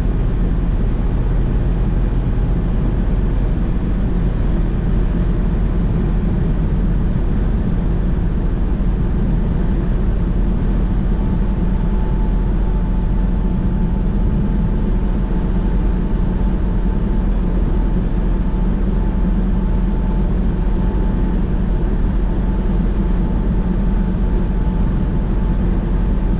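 Steady drone of a semi truck's diesel engine and tyre noise heard from inside the cab while driving at road speed, with no breaks or sudden events.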